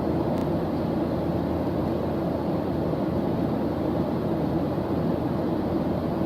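Steady white-noise sound bed: an even, unbroken hiss weighted toward the low and middle range, with one faint tick about half a second in.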